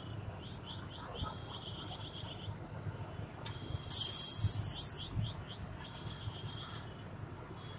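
A songbird chirping in quick repeated trills over a low steady rumble. About four seconds in comes a sudden loud hiss that fades away over about a second.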